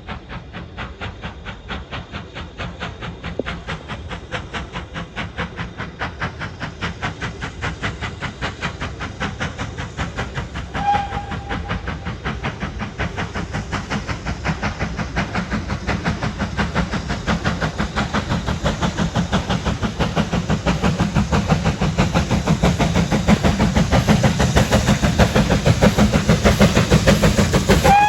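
BR Standard Class 9F steam locomotive working hard, its exhaust beats chuffing in an even rhythm and growing steadily louder. Its whistle gives a short note about eleven seconds in and starts a longer blast right at the end.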